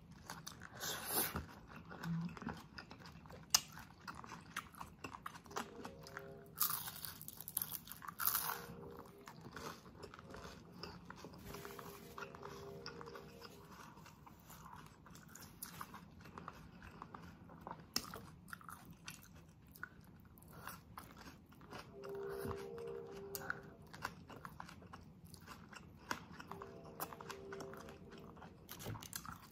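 Close mouth sounds of a person chewing food: irregular wet smacks and soft crunches, a few louder ones within the first nine seconds.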